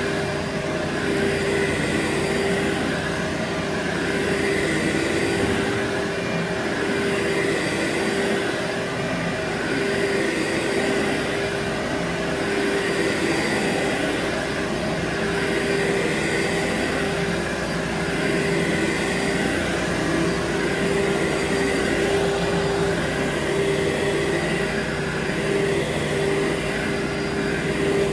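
Vacuum cleaner running steadily on carpet: a constant motor hum with a rushing airflow that swells and eases about every two to three seconds.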